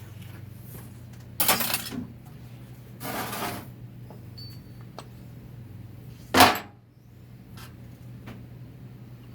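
Metal parts of a 4L60-E automatic transmission being handled: a rattling clatter, a scrape, then one sharp clank a little past halfway, over a steady low hum.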